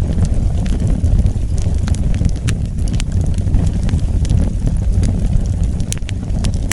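Wood fire burning, with a steady low rush and frequent sharp crackles and pops from the burning wood.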